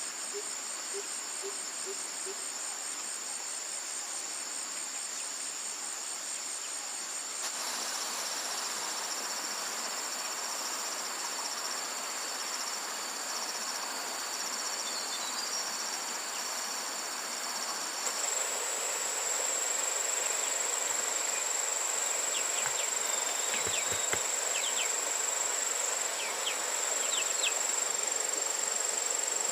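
Insects calling in chorus: a steady, high-pitched trill over a background hiss. The pattern of calls changes suddenly about seven and eighteen seconds in, and a few faint ticks come near the end.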